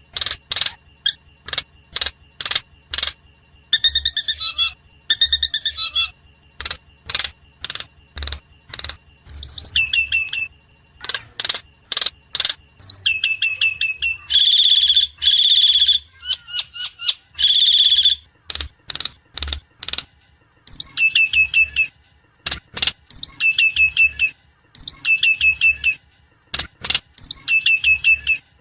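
Javan myna (jalak kebo) calling: runs of sharp, short harsh calls alternating with repeated whistled phrases, over a faint steady high tone.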